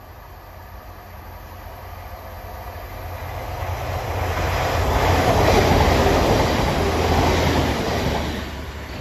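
Class 185 diesel multiple unit passing through a station without stopping: its engine and wheel noise grow steadily louder as it approaches, are loudest as it goes by about five to seven seconds in, and fade quickly by the end.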